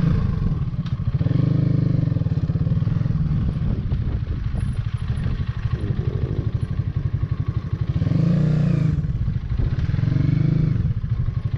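Hanwey 250cc motorcycle's single-cylinder air-cooled four-stroke engine running at low revs with a rapid, even pulse, opened up briefly three times: about a second in, then around eight and ten seconds in.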